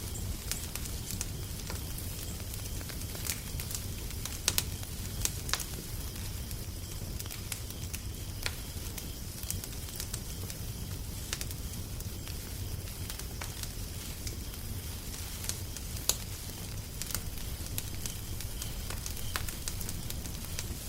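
Wood fire crackling, with irregular sharp pops over a steady low rumble of the flames.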